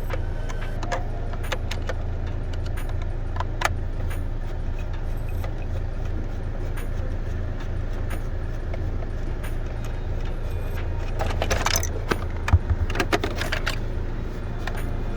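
Audi's engine idling steadily, with scattered light clicks and rattles that bunch up near the end.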